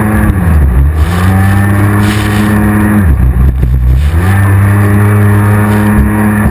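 Racing jet ski engine running hard at high revs, its pitch dropping twice as the throttle eases off and climbing back as it picks up again.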